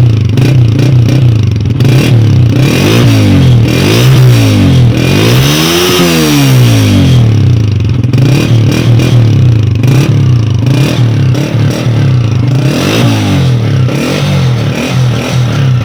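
Honda CG 125 single-cylinder engine exhausting through a worn old-model stock silencer, revved up and down repeatedly, with the biggest rise and fall in the middle and another near the end. The mechanic judges the sound poor because the silencer's internal mesh and baffles have broken down with age.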